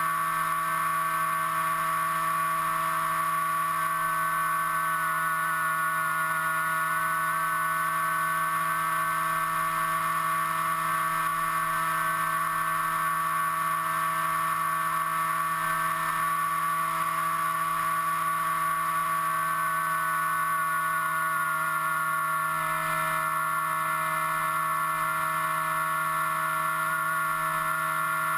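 Electric motor and propeller whine of an FPV aircraft, heard from its onboard camera: a steady, loud drone made of several fixed tones, the upper one wavering slightly and easing a little lower in pitch after about twenty seconds.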